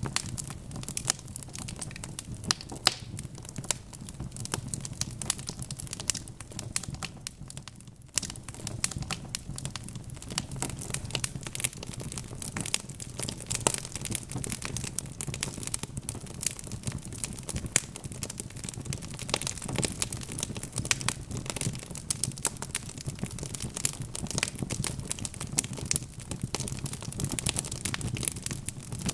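Wood fire crackling in a fireplace: a dense, irregular run of sharp pops and snaps from the burning logs over a low steady rumble, easing briefly about eight seconds in.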